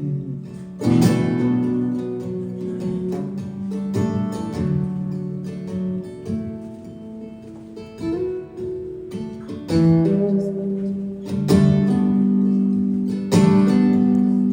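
Acoustic guitar strumming chords between sung verses, each strum ringing out before the next.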